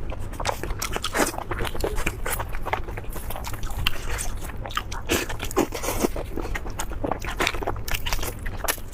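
Close-miked eating: repeated bites and chewing with crunchy, crackling clicks in an irregular run.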